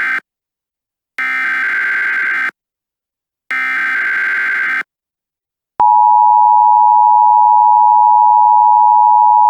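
Emergency Alert System signal: the end of one SAME digital header burst, then two more buzzy data bursts, each a little over a second long with a second's gap between them. About six seconds in comes the EAS two-tone attention signal, a steady dual tone held for about four seconds, which announces a new alert.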